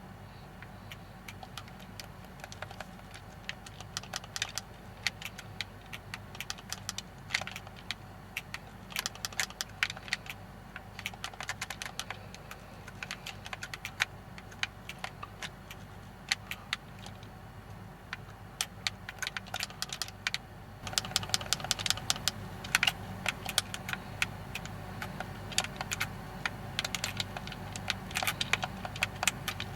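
Irregular sharp ticks and patters of raindrops striking the Hiace van's metal body, over a low steady hum. The drops come thicker and louder about two-thirds of the way in.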